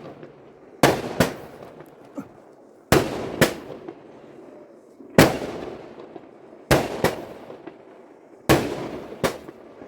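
Aerial fireworks bursting: about nine sharp bangs, several coming in pairs about half a second apart, each followed by a fading echo.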